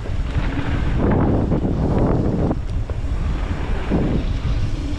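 Wind buffeting the microphone of a mountain bike rider on a dirt trail descent, with loud uneven rushing and low rumble that swells and eases.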